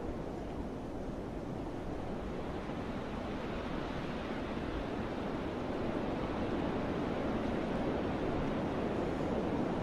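Wind rushing through forest trees as a steady, surf-like wash, swelling louder in the second half.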